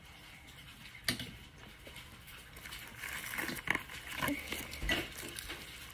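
Quiet chewing and mouth noises from eating hand-rolled rice, shredded chicken and seaweed, with scattered small clicks and taps of hands and food at the plates.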